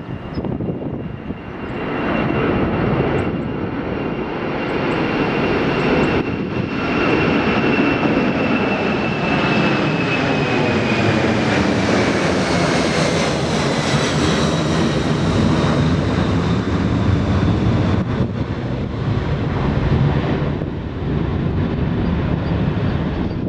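A jet airliner passing close by. Its engine noise swells about two seconds in and stays loud, with a phasing sweep through it, and a high fan whine that slowly falls in pitch as the aircraft goes past.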